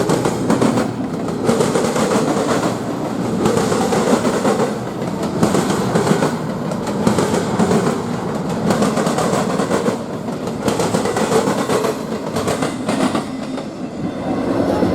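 A train rolling past, its wheels clacking over the rail joints in an uneven rhythm of about one clack a second, over a steady rumble.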